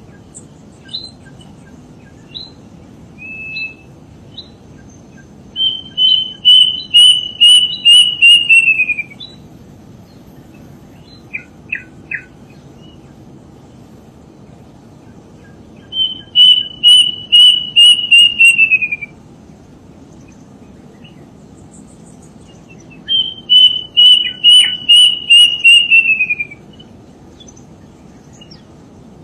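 Bird of paradise calling: three bouts of a rapid series of loud, repeated notes, each lasting about three seconds and sliding lower at the end, with scattered short chirps in between.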